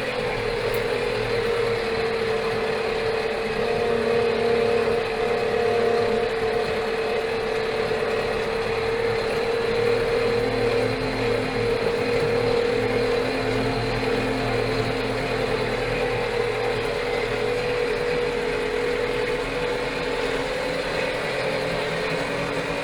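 Steyr 4075 Kompakt tractor's four-cylinder Fiat Powertrain diesel engine running at steady revs.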